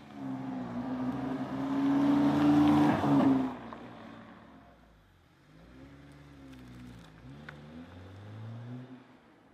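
BMW E90 with a Maxhaust active sound generator putting out a V8-style exhaust sound: revving up and held high for about three seconds, then falling away, followed by several quieter rising-and-falling revs.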